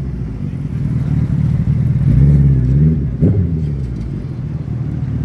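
Suzuki Hayabusa's inline-four engine idling through its exhaust. It is revved up and back down about two seconds in, then given one quick, sharp throttle blip before settling back to idle.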